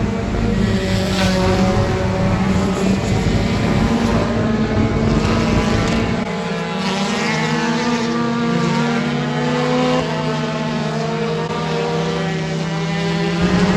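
Dirt-track race car engines running at speed, their pitch rising and falling through the lap; the deepest rumble drops away about six seconds in.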